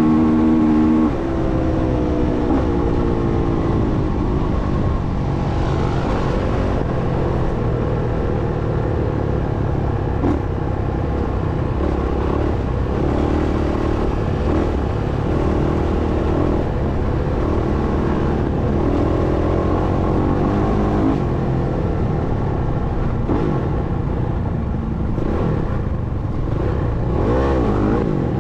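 Motocross dirt bike engine running hard, its pitch rising and falling as the rider revs and shifts through the gears, with a quick wavering of revs near the end.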